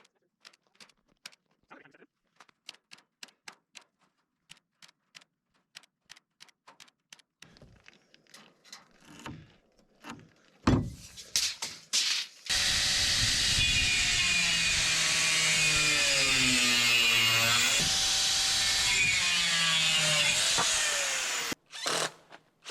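Faint, evenly spaced clicks, then a knock about ten seconds in. Then a power drill runs for about nine seconds into wood, its pitch sagging under load and rising again before it stops.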